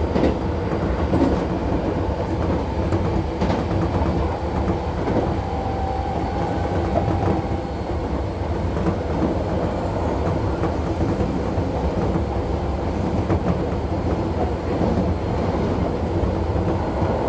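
Keisei 3400 series electric train running, heard from inside the carriage: a steady rumble of wheels on rail with scattered rail-joint clicks, and a short whine about six seconds in.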